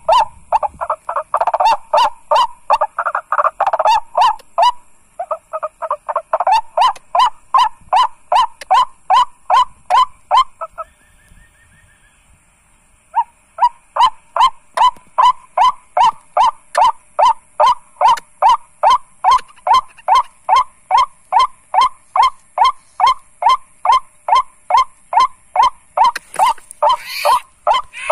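White-breasted waterhen calling: a long run of loud, evenly repeated 'kwak' notes, about two or three a second, broken by a pause of a couple of seconds near the middle. This is the call used as the lure for the birds.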